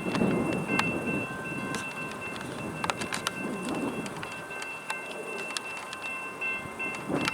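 Freight train rolling past, with a steady rumble, scattered sharp clicks of wheels over the rail and a steady high-pitched whine.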